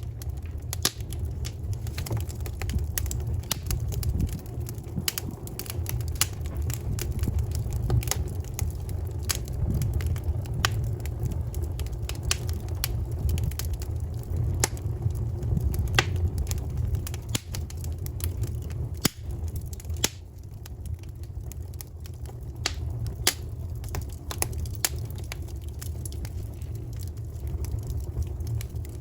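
Wood fire burning, with irregular sharp crackles and pops of burning wood over a steady low rumble.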